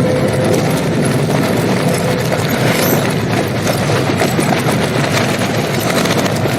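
Film battle soundtrack played in reverse: a dense, continuous mass of gunfire and explosions, with many rapid sharp cracks over a steady rumbling din.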